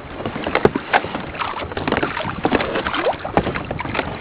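Sea water slapping and splashing against a kayak's hull, in quick irregular splashes, with wind buffeting the microphone.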